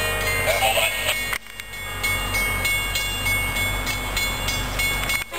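MBTA commuter train approaching behind its diesel locomotive: steady held tones over a low engine rumble. The sound drops out briefly about a second and a half in and again near the end.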